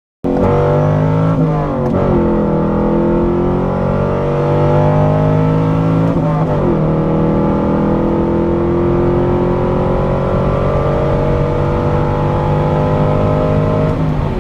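C5 Corvette Z06's LS6 V8 pulling hard at full throttle, revs climbing steadily in each gear. It drops in pitch at three upshifts: about two seconds in, midway, and near the end.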